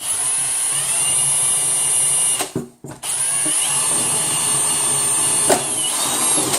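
Handheld electric drill drilling a hole, with a steady high whine, in two runs: it stops about two and a half seconds in, then spins up again half a second later and runs until near the end.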